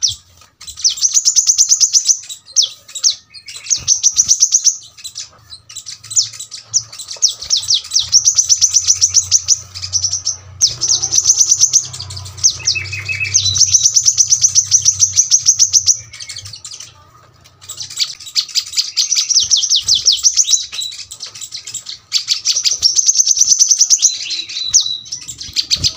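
Brown-throated sunbird singing: bursts of very rapid, high-pitched notes, each lasting a second or two, repeated over and over with short pauses between them.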